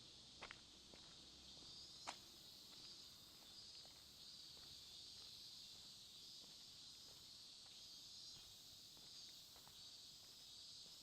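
Faint, steady chorus of night insects, a continuous high chirring that swells and fades slowly, with two soft clicks in the first couple of seconds.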